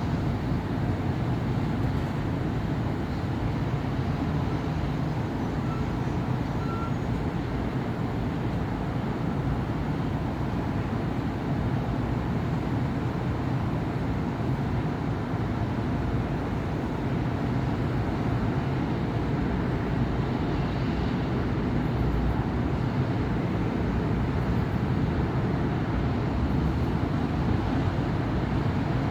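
Steady city road traffic: a continuous low rumble of cars and buses moving along a busy avenue.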